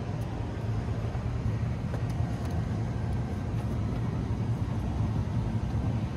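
Steady low mechanical rumble, with a few faint ticks.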